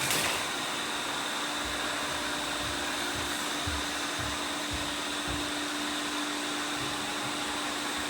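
Several robot vacuum cleaners running together: a steady whirring of suction fans with a high whine, and a few soft low thumps in the middle.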